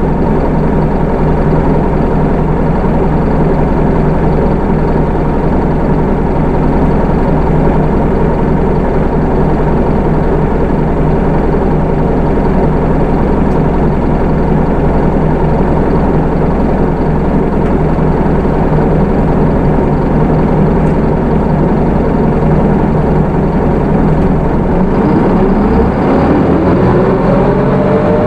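Isuzu 4HK1 four-cylinder diesel of a Hino Rainbow II city bus, heard from on board, idling steadily; about 25 seconds in the engine note rises as the bus pulls away.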